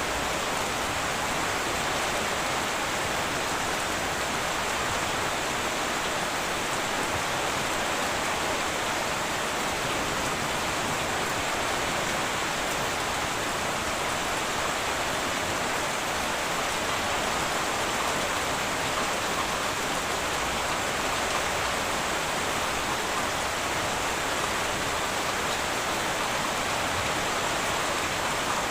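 Heavy rain falling steadily on a tin roof, an even downpour with no thunder.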